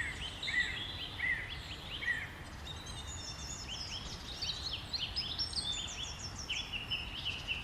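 Several small songbirds singing and chirping at once: many short, overlapping notes and trills, with a faint low background rumble.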